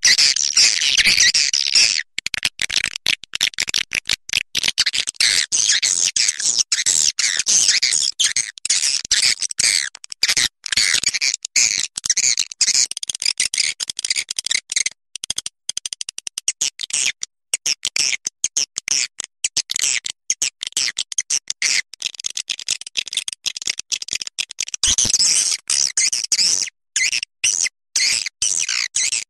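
Swiftlets calling: a dense, rapid, high-pitched chattering twitter that goes on with only brief breaks.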